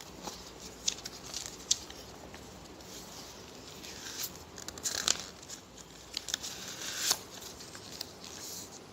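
Paper handling: a few soft clicks and brief crinkling rustles, scattered over several seconds, as the book's pages are handled.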